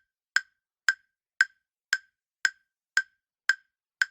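Quiz countdown-timer sound effect: sharp, identical wooden ticks, evenly spaced at about two a second.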